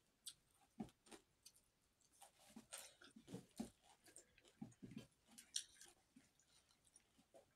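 Faint, irregular chewing and soft mouth clicks of a person eating rice and fish curry by hand.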